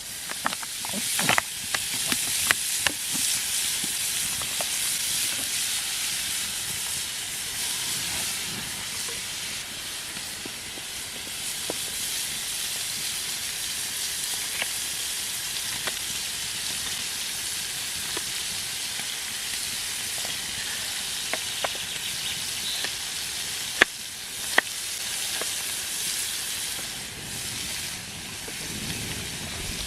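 Food frying, a steady sizzling hiss that swells up just after the start, with scattered sharp clicks and ticks.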